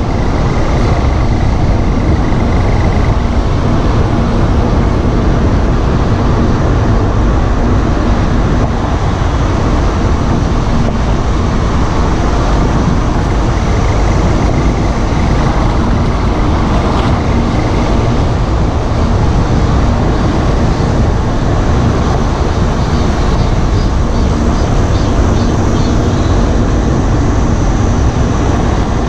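A 2014 Volkswagen Golf GTI Mk7 on the move: steady road and driving noise, heaviest in the low end. A faint steady hum comes through near the start and again for several seconds near the end.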